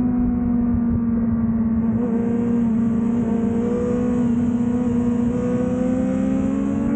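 2005 Yamaha YZF-R6's inline-four engine, fitted with an aftermarket Laser exhaust, running hard at high revs. Its pitch dips a little in the middle and then climbs again toward the end.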